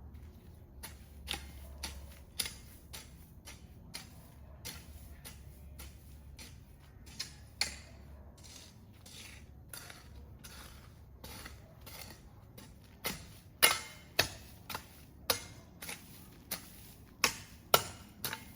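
An irregular series of sharp clicks and knocks, about two a second, louder and more frequent in the second half.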